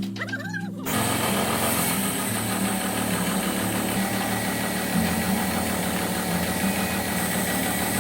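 An engine-driven machine starts up loud about a second in and then runs steadily, over background music.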